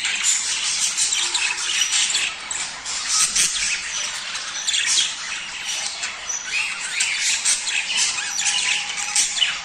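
Budgerigars chattering and warbling without a break, many high chirps and squawks overlapping. This is breeding-season chatter, the kind played to budgies to get them to mate.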